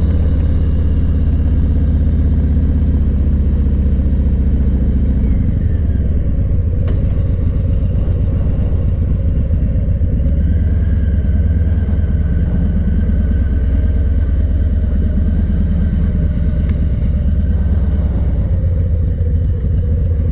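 A motor vehicle's engine and road noise heard while riding, as a loud steady low drone. The engine note shifts about five seconds in.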